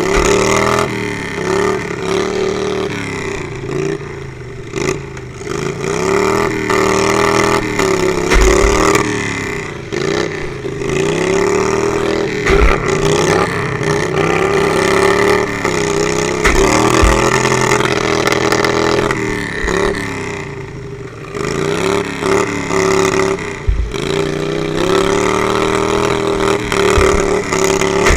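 Lawnmower derby engines running hard, revving up and easing off over and over, the pitch rising and falling every few seconds, with a few short low thumps.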